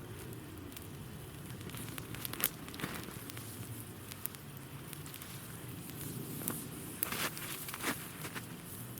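Small campfire of branches and wood chips burning in the snow, crackling with scattered sharp snaps over a low steady rustle.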